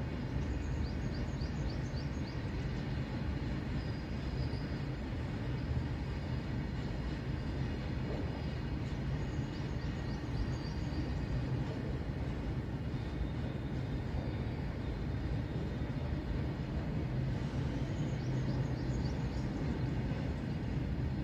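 A long freight train of open wagons rolling past at a steady pace, a continuous low rumble of wheels on rail. Faint, high-pitched chirps come and go three times over it.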